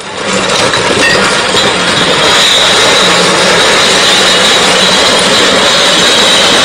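Road roller running loudly and steadily, building up over the first couple of seconds.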